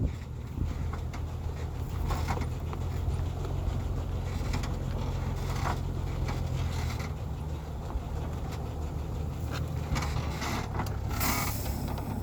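Heavy truck engine running steadily at low revs, its note shifting slightly about halfway through, with a few sharp knocks over it.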